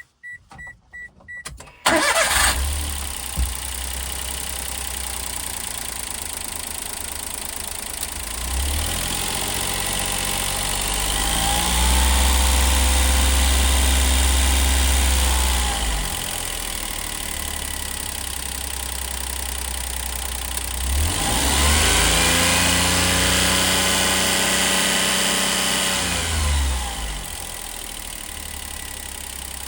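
Daihatsu Hijet Cargo's 660 cc three-cylinder engine, a low-mileage used unit, being test-run: a few short beeps, then it starts about two seconds in and idles. It is revved up and held twice for several seconds each, then drops back to a lower idle near the end.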